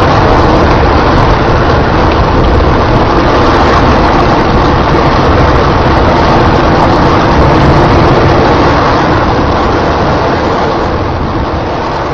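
Hydrogen-oxygen rocket engine firing: a loud, steady rush of noise, very low to high pitch, that starts to fade over the last few seconds.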